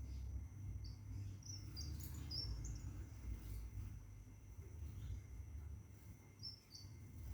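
Caged scarlet minivet giving short, high chirping calls: a quick run of five or so in the first three seconds and two more near the end. A steady high whine and a low rumble run underneath.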